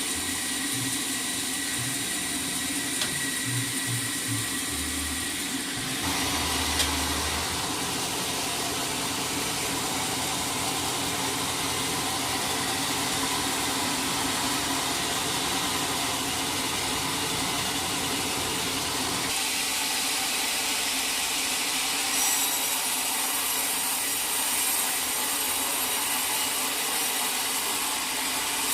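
Sawmill saw running steadily as it cuts through a log. The sound shifts in character about six seconds in and again about twenty seconds in.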